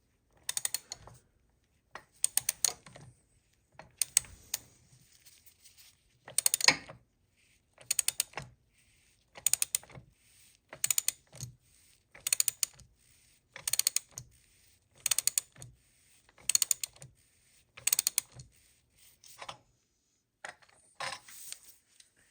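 Socket ratchet clicking in short bursts, about one every second and a half, as it is worked back and forth in small strokes to tighten the nut of a cam bearing puller that is drawing an old cam bearing out of a Harley-Davidson Evolution engine.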